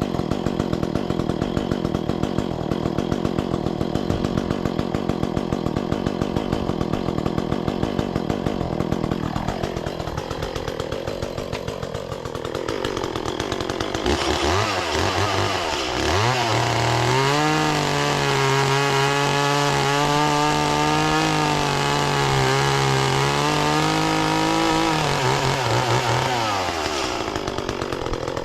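Gasoline chainsaw engine running steadily for the first several seconds, then revved up about halfway through and held at high revs with a slightly wavering pitch, dropping back near the end.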